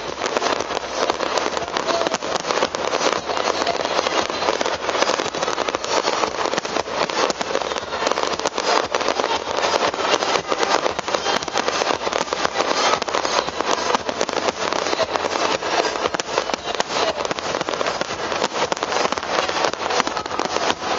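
Fireworks crackling in a dense, steady stream of many small overlapping pops, with no single big bang standing out.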